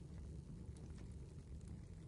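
Wood fire burning in a fireplace: a low steady rumble of the flames with faint, scattered small crackles and pops.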